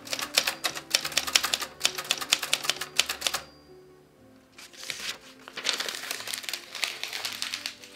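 Rapid typewriter keystrokes clacking in two runs, with a pause of about a second in the middle, over soft sustained music.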